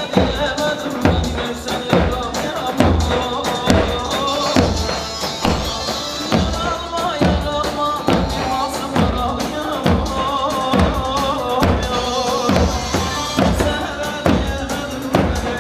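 Instrumental band music: a keyboard melody over a steady drum beat, with no singing.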